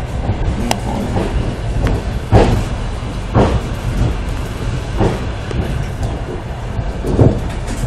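Passenger train running at speed, heard from inside a carriage: a steady low rumble of wheels on rails, broken by a few irregular wheel knocks over the track, the loudest about two and a half seconds in.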